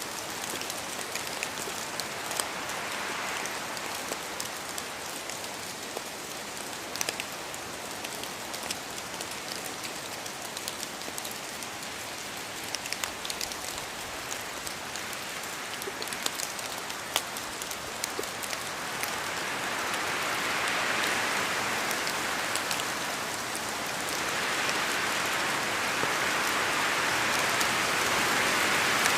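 Steady rain falling in a forest, with individual drops ticking close by. The rushing hiss swells louder twice in the second half as the wind gusts through the trees.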